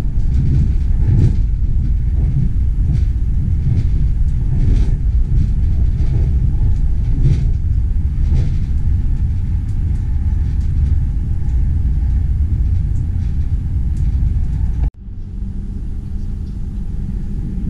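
Rumble of a moving train, dense and low, with scattered faint clicks. About fifteen seconds in it cuts off abruptly, giving way to a quieter steady hum.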